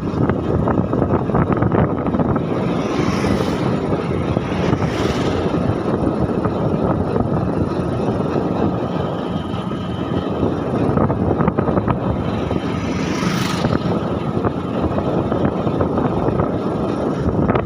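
Steady rumble of a motor vehicle travelling along the road, with brief hissy swells about three, five and thirteen seconds in.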